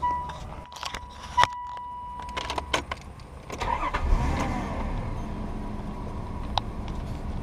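A 2001 Nissan Elgrand's 3.5-litre V6 started with the key: a steady warning tone and a few clicks from the ignition, then the engine cranks briefly, catches about four seconds in and settles into a steady idle.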